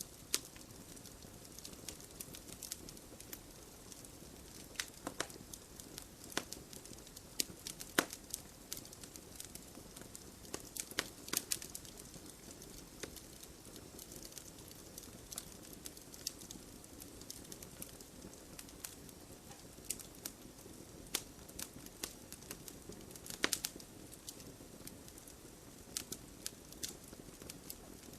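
Wood fire of burning logs in a fireplace crackling and popping: irregular sharp snaps over a steady soft hiss and rumble of the flames, a few pops louder than the rest.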